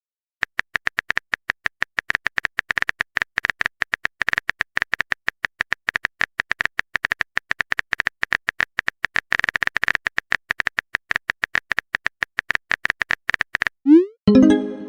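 Phone keyboard typing sound effect: a fast, steady stream of short clicks from about half a second in, stopping near the end. A short rising blip then follows and is the loudest sound.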